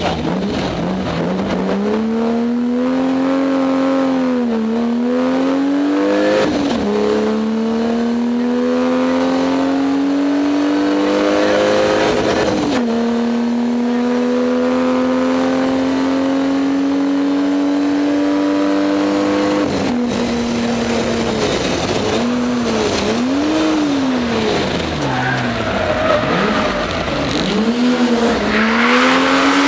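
A BMW E30 325i rally car's straight-six engine pulling hard under full throttle, with three upshifts where the revs drop back and climb again. Then come quick rises and falls in revs as it brakes and accelerates through corners, and a rush of tyre noise builds near the end.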